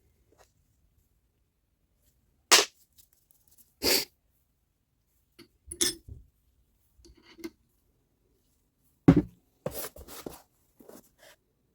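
Sharp knocks and clicks of parts being handled and set down on a workbench, about half a dozen spaced a second or more apart, with a small cluster near the end.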